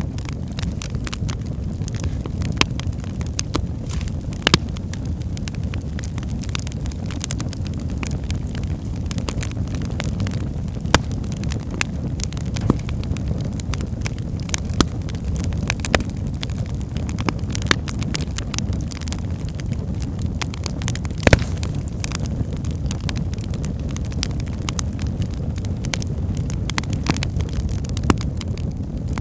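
Wood fire burning in a fireplace: a steady low rumble of flames with frequent sharp crackles and pops from the logs, one louder pop about two-thirds of the way through.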